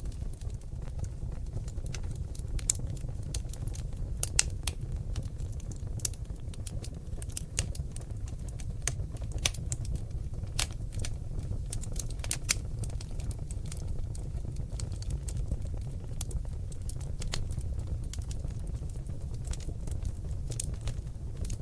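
Seasoned oak logs burning in a fireplace: a steady low rumble of flame with irregular sharp crackles and pops, several a second, a few standing out louder.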